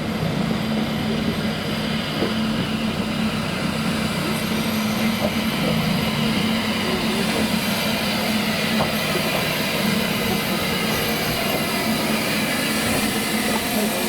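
Narrow-gauge double Fairlie steam locomotive standing after coming to a stop, giving a steady, even sound with a low hum and no exhaust beats.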